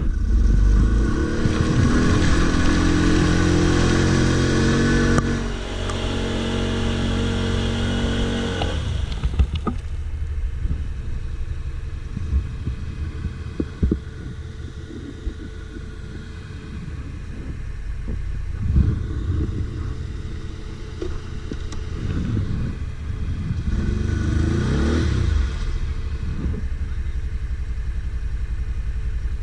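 ATV engine revving hard, its pitch climbing over the first eight seconds or so, then dropping back to lower, steadier running. Sharp knocks and clatter come through now and then, and there is a second short burst of revs near the end.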